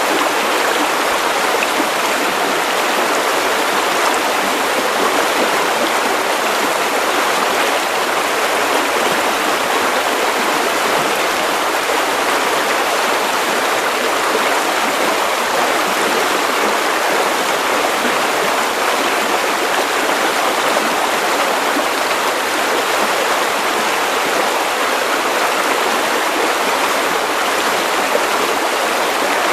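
Steady white-noise hiss for lulling a baby to sleep, unchanging throughout, with most of its weight in the middle and upper range and little bass.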